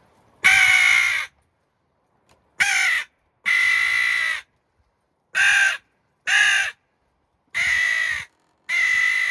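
JPPCalls mouth-blown crow call sounding seven caws, each about half a second to a second long. The pitch shifts from caw to caw as the angle of the call in the mouth is changed.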